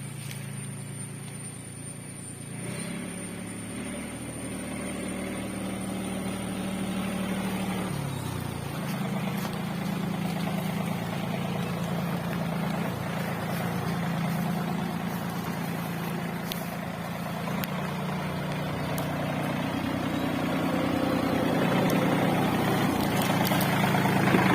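A John Deere mini tractor's engine running steadily. Its pitch shifts a little a couple of times, and it grows gradually louder toward the end.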